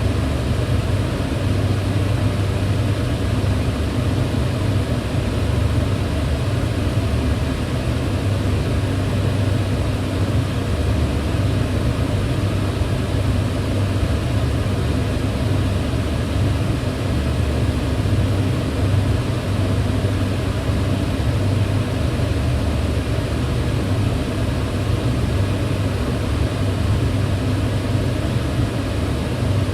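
Kitchen range hood fan running steadily: an even, unbroken whoosh of air with a low hum.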